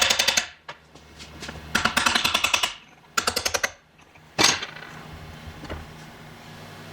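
Impact wrench hammering bolts loose on a transfer case cover, in three bursts of rapid knocking about a second each, followed by a single metal clank.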